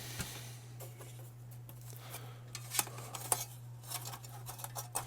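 Scattered light clicks and rustling from handling small console parts and a plastic bag of screws, over a steady low electrical hum.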